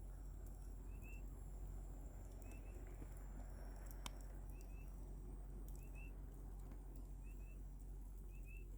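Campfire burning with a low steady rush and one sharp pop about four seconds in. A high double chirp from some small creature repeats about once a second behind it.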